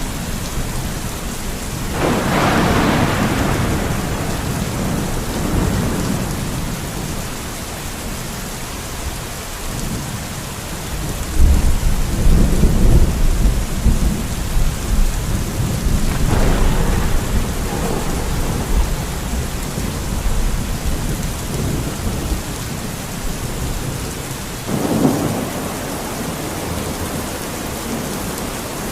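Steady rain with thunder rolling four times: a rumble that swells a couple of seconds in, a long deep low rumble through the middle, and two shorter rolls later on.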